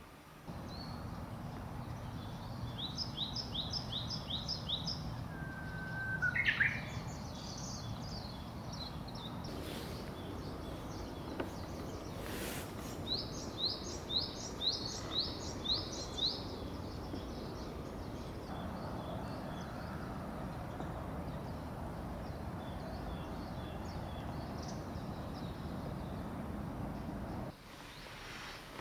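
Steady rain falling in a forest, while a songbird sings two quick runs of about eight high rising notes, with a single call between them. There are two brief taps partway through.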